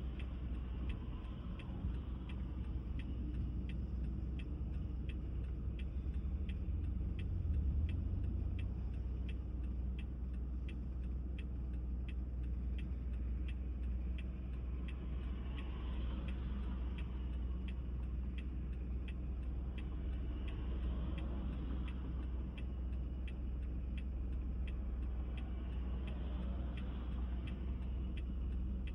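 Car driving steadily on the road, with a low, even rumble of engine and tyre noise and a faint regular ticking, about two ticks a second.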